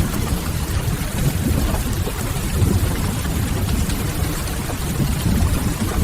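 Steady rain mixed with the faint crackle of a wood fire, over a deep, even rumble.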